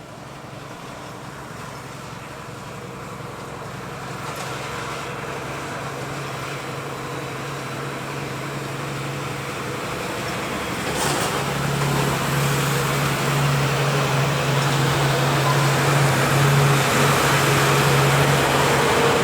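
Airbus A318's twin CFM56 turbofan engines on landing approach: a steady jet noise with a low hum, growing steadily louder as the aircraft comes closer.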